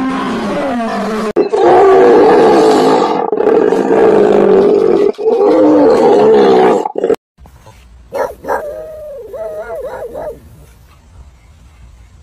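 Loud, drawn-out calls from a large animal, in several pieces, for about the first seven seconds; then much quieter, with a few short wavering calls a little after the eighth second.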